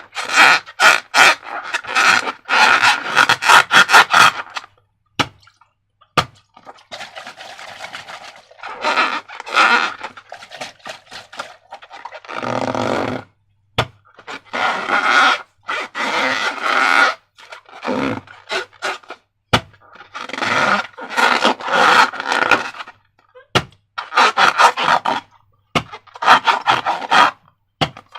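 Slime squelching and crackling as it is squeezed and worked, in repeated wet bursts of one to a few seconds with short pauses between.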